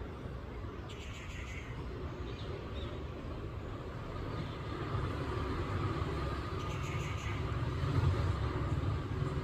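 Steady low outdoor rumble that grows louder in the second half, with a few faint, short high chirps over it.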